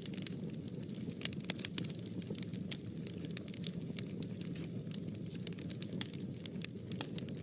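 Fire burning in a fireplace, crackling: frequent irregular sharp pops and snaps over a steady low rumble of the flames.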